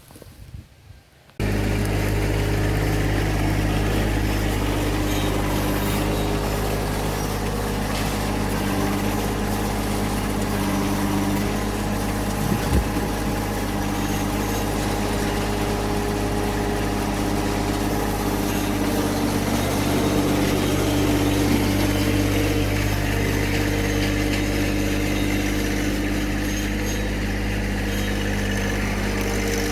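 John Deere 1023E compact tractor's three-cylinder diesel engine running steadily at an even speed. It comes in abruptly about a second and a half in, and one short sharp click sounds over it midway.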